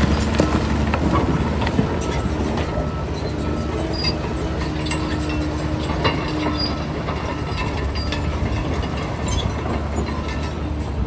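Heavy diesel earthmoving machinery running steadily, with scattered metallic clanks and knocks over the engine's low rumble.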